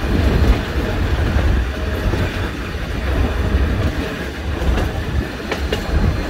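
Nilgiri Mountain Railway train running, heard from on board: a steady low rumble of the coaches on the rails, with a few faint clicks near the end.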